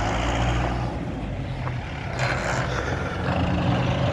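A vehicle engine running steadily, with a brief rushing noise a little after two seconds in.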